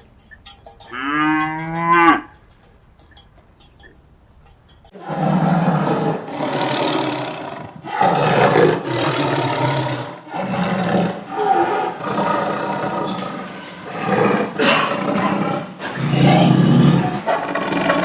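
Animal sound-effect calls: one short pitched call about a second in, then after a pause of about three seconds a long run of harsh, rough roars with brief breaks between them.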